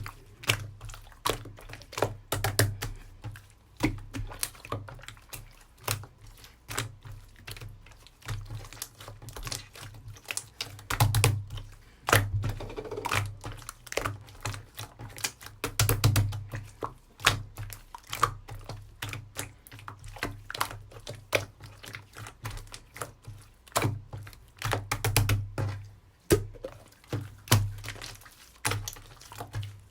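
Slime being kneaded and pressed by hand, giving a rapid, irregular run of sharp clicks and pops as air pockets burst.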